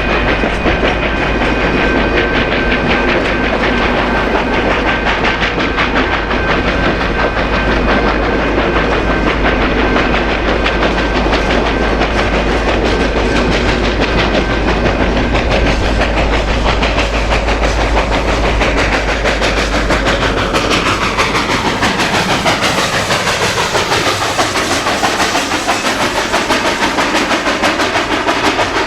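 1929 Georgia Northern Railway 2-8-2 steam locomotive No. 105 and its train running past with a steady rhythmic clatter of wheels on rail. About two-thirds of the way through, the sound sweeps lower and the deep rumble falls away as the train goes by.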